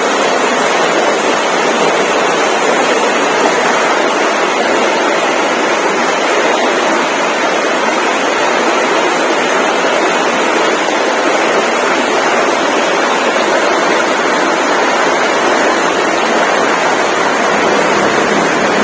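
Steady, even rushing noise with no pitch, rhythm or breaks.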